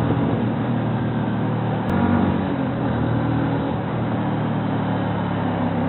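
Bajaj Pulsar NS125 FI's single-cylinder four-stroke engine running under way, heard from the rider's seat. About two seconds in, the revs dip briefly and then pick up again.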